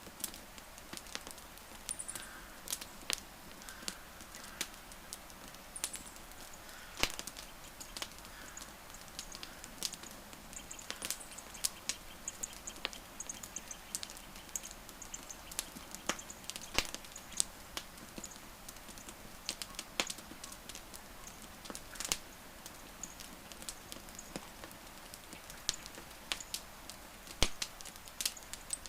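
Burning wood fire crackling, with irregular sharp pops and snaps several times a second over a soft steady hiss.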